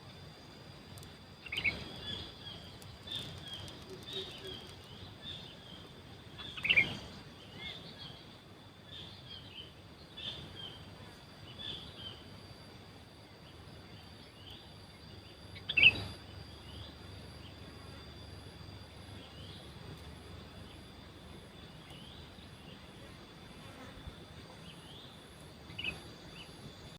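Sooty-headed bulbul calls: short chirps every second or so, with a few louder ones about two, seven and sixteen seconds in and near the end, over a steady high-pitched insect drone.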